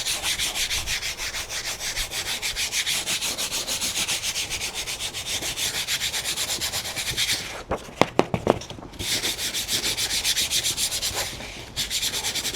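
Rapid back-and-forth rubbing over dried turmeric-coated paper as the gritty turmeric residue is rubbed off, a scratchy, even stroking rhythm. It pauses briefly about eight seconds in, with a few sharp taps, then carries on and stops near the end.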